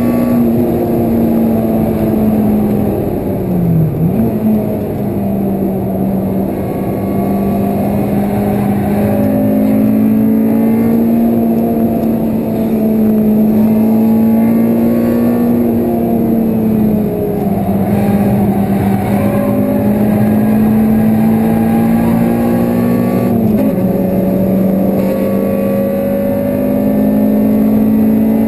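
Honda Civic Type R's four-cylinder VTEC engine running hard at high revs on track, heard from inside the cabin, with road and wind noise. Its note holds steady, dips sharply about four seconds in, and steps down briefly twice more later as gears change.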